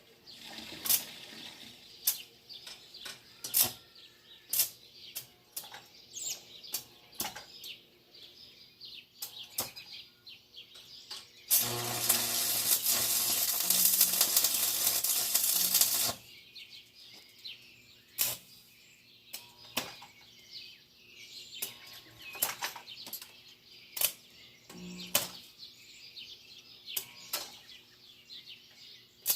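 Stick arc welder with a 7018 rod at about 70 amps: scattered taps and scratches as the rod is struck to start an arc, then an arc burning with a steady crackling hiss for about four and a half seconds before it cuts off, followed by more taps. The rods are old and hard to strike at this low setting.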